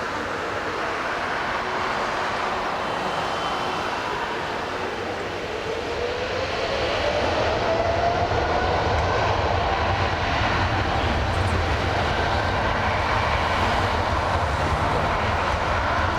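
Jet roar of a Boeing 777-200LR's twin GE90 turbofan engines at takeoff thrust, growing louder about six seconds in as the deep rumble builds, with a faint whine rising in pitch.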